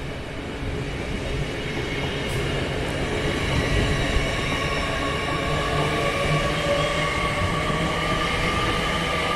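An LNER Azuma electric train moving slowly past on the near track: a steady rumble from the wheels on the rails, with a high whine that rises slightly in pitch as the train gets going.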